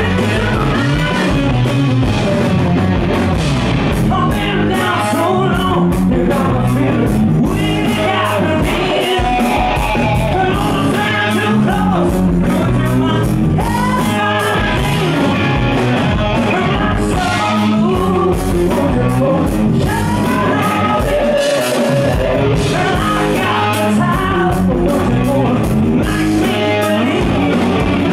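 Rock band playing live: a male lead singer over electric guitar and a drum kit, a loud, dense concert mix.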